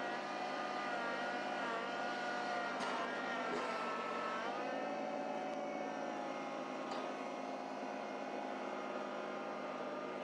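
Small tractor's engine running steadily, its pitch dipping slightly a couple of times, with a couple of faint clicks.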